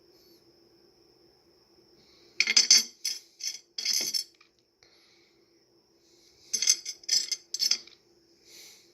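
Pieces of rough opal clinking and rattling against each other as they are handled, in two short flurries of bright clicks. A faint steady high-pitched whine runs underneath.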